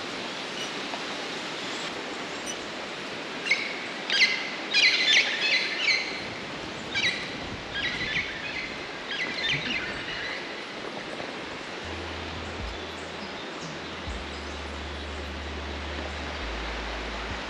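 Rainforest birds calling: a run of short, rapid, high calls in several clusters from about three and a half seconds in to about ten seconds, over a steady background hiss of the forest. A faint low rumble joins in the second half.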